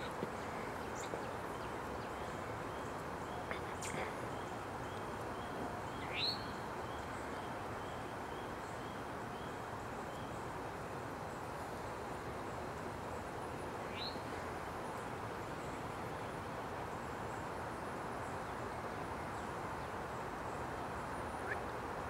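Steady outdoor background noise with two short rising bird calls, about six and fourteen seconds in. A faint series of evenly spaced high notes runs from about three to twelve seconds in.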